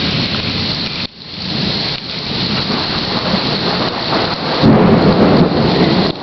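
Thunderstorm: steady heavy rain, with a deep rumble of thunder swelling up about four and a half seconds in.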